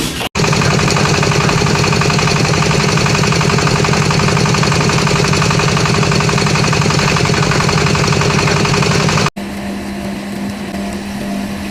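A machine running steadily with a fast, even pulsing; it cuts off abruptly about nine seconds in, giving way to a quieter steady hum.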